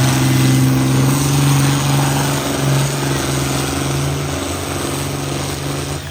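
Pulling tractor's engine running hard and steady at high revs under load down the pull track, then dropping off suddenly near the end as the run finishes.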